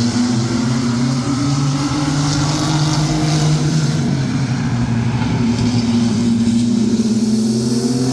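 Engines of several racing mini trucks running together at speed, a steady engine drone whose pitch eases slightly midway and climbs again near the end.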